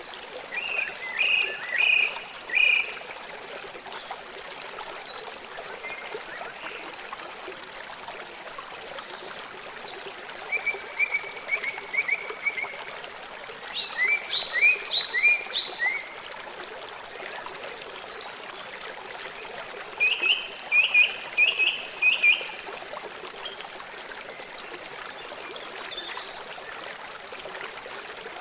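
Steady running water of a stream. Over it an animal calls in four short trains of quick, high chirping notes.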